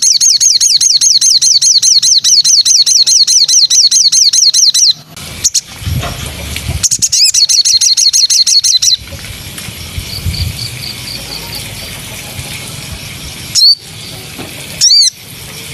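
Songbird singing: a loud, fast run of repeated falling notes, about six a second, for about five seconds, and another short run a couple of seconds later. Near the end come two loud, sharp whistles.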